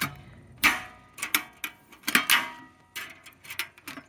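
Irregular clicks and knocks of hard plastic parts of a water distiller and gravity filter being handled, several strikes with a short ringing after them.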